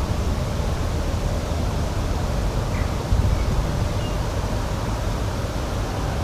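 Steady outdoor rushing noise, heaviest in the low end, with a few faint short bird chirps about halfway through.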